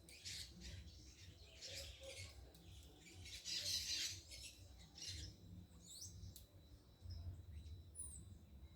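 Birds calling: several short harsh squawk-like bursts in the first half, then a few thin, quick chirps near the end.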